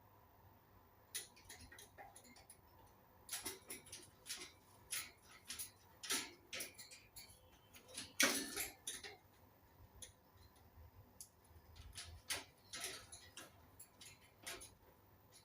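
Indian ringneck parakeet making soft, irregular clicks and short scratchy sounds, with one louder, harsher burst about halfway through.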